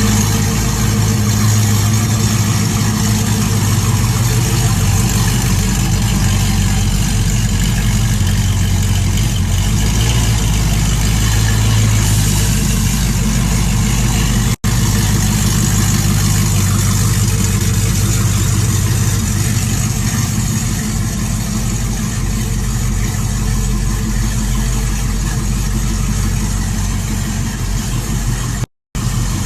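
Chevy C-10 pickup truck's engine idling steadily, with an even low hum. The sound drops out for an instant about halfway through and again briefly near the end.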